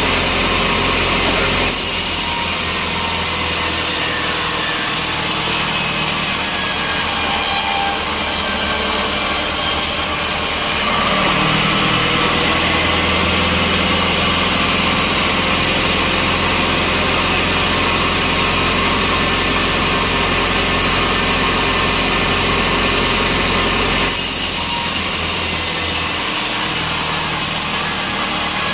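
Sawmill saw cutting through a log over a steadily running motor. The sound shifts abruptly about 2 seconds in, again around 11 seconds, and near 24 seconds.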